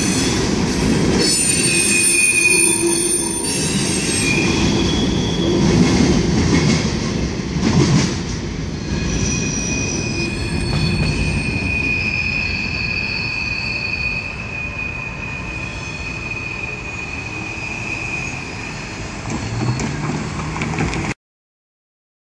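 CSX Tropicana juice train's refrigerated boxcars rolling through a grade crossing, wheels clattering and squealing. As the last cars pull away the rumble fades and a long steady high squeal hangs on for about ten seconds; a low rising tone comes in near the end before the sound cuts off suddenly.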